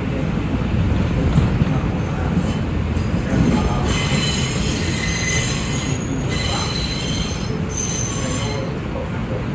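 R142 subway train running with a steady low rumble; about four seconds in, its wheels squeal against the rails in several high, steady tones for about four seconds before dying away.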